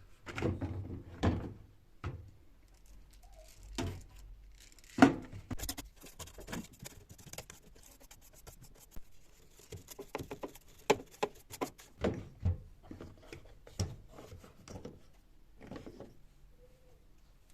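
Household objects being handled and set down: scattered knocks, clicks and light clatters, the loudest knock about five seconds in.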